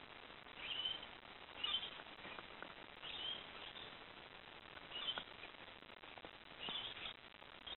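Faint bird calls: short, high chirps repeated every second or two over a steady low hiss.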